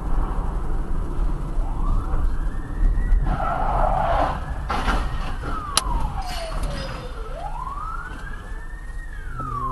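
Emergency vehicle siren in a slow wail, rising and falling twice, over a steady low rumble of engine and road noise. A brief rush of noise comes about three to four seconds in, and a few sharp clicks follow.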